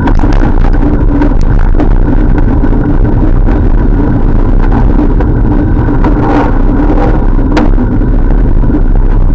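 Heavy wind rush and road noise on the microphone of a moving bicycle, loud and steady, with a steady hum underneath and a couple of sharp clicks near the end.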